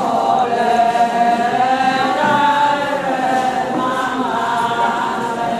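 Ponung song: a group of voices chants a drawn-out refrain together, pitch gliding slowly, answering the lead singer's line.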